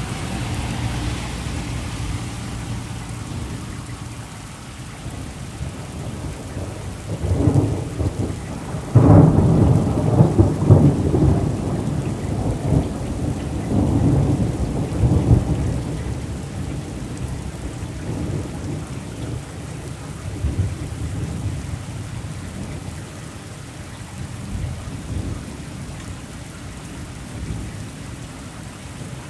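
Steady rain falling, with a long low rumble of thunder that builds about seven seconds in, is loudest a few seconds later, and dies away.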